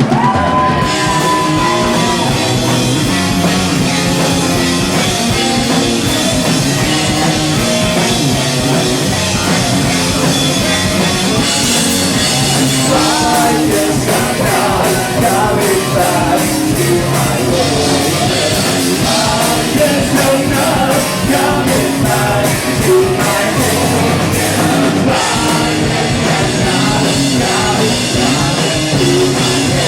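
A live rock band plays loudly: electric guitars, bass and a drum kit. The cymbals get busier through the middle stretch.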